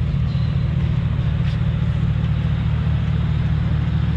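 A car engine running close by: a steady low rumble.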